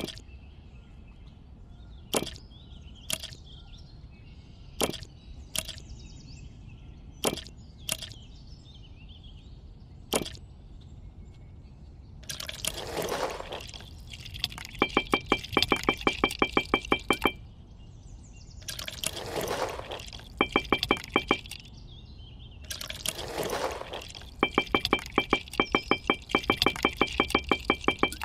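Miniature clay bricks set down one at a time with sharp clicks, about eight in the first ten seconds. Then wet mortar is spread with a small trowel: three wet swishing passes, each followed by a fast rattling run of ticks.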